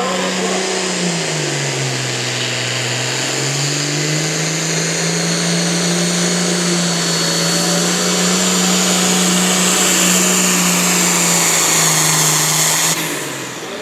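Pulling tractor's diesel engine at full throttle during a pull: the engine note sags about a second and a half in as it loads up against the sled, recovers and holds steady, then drops off sharply near the end as the run finishes.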